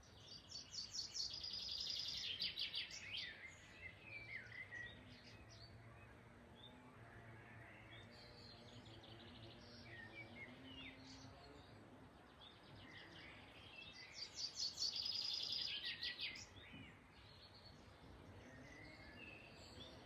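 A songbird singing two loud, rapid trilled phrases, the first about half a second in and the second about 14 seconds in. Each phrase ends in a few lower notes, and fainter bird chirps come in between.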